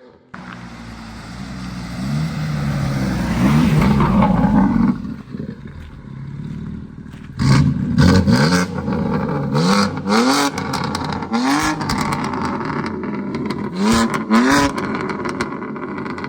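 BMW M4 Competition's twin-turbo inline-six, running with downpipes, intakes and a tune, accelerating hard in two pulls, the second starting about seven seconds in. Its pitch climbs and drops back several times as it upshifts, with sharp cracks at the shifts.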